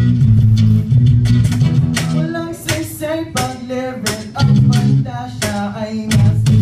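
Live acoustic band music: guitar with deep bass notes, joined by a voice singing from about two seconds in.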